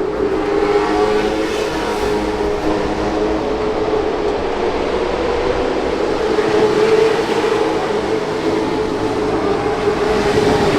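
A field of late model stock cars running laps on a short oval, their V8 engines making a loud, steady, massed drone.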